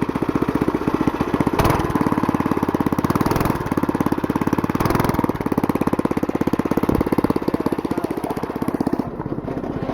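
Stock 136 cc, 4 hp single-cylinder engine of a Black Widow go-kart running steadily with a rapid, even beat, dropping a little in level near the end.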